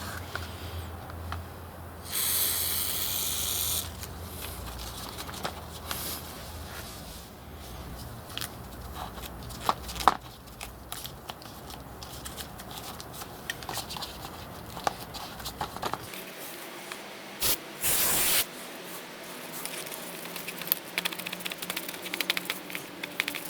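Aerosol upholstery spray adhesive being sprayed in two bursts: a steady hiss of about a second and a half a couple of seconds in, and a shorter one past the middle. Small clicks and rustles of handling the fabric and plastic panel fill the gaps.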